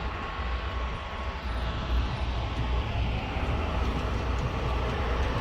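A steady roar of engine noise from vehicles or aircraft, with wind buffeting the microphone in a low, uneven rumble.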